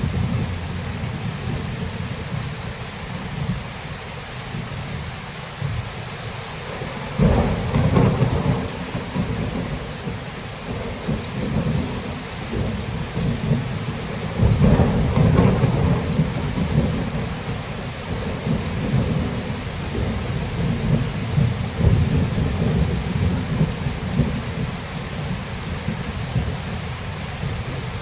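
Steady rain with rumbling thunder. The thunder swells sharply twice, about seven seconds in and again about halfway through, with lighter rolling rumbles after that.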